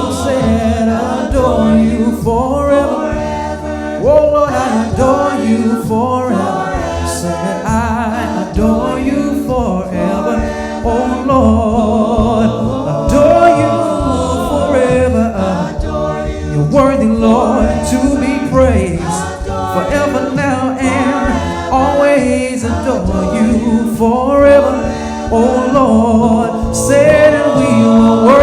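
Gospel song sung by a group of voices over instrumental accompaniment with a bass line and drums.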